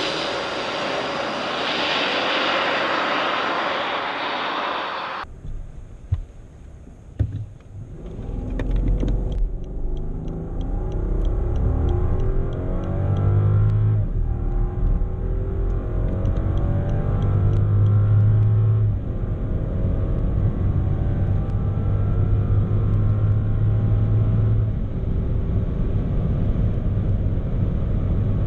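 Rolls-Royce Dawn's twin-turbo V12 under acceleration with heavy road and wind noise. The first five seconds hold only the rush of driving at speed. It then cuts to a quieter moment with two sharp clicks, after which the engine note climbs in pitch over and over as the car pulls through the gears over a deep, steady road rumble.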